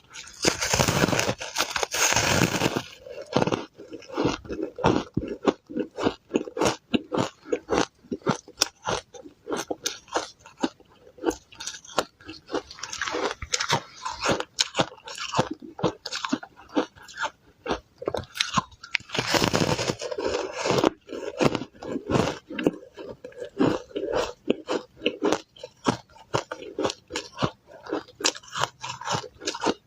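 Ice dusted with matcha powder being bitten and chewed close to the microphone: a steady run of sharp, irregular crunches and cracks, with two longer, louder stretches of crunching, one near the start and one about two-thirds of the way through.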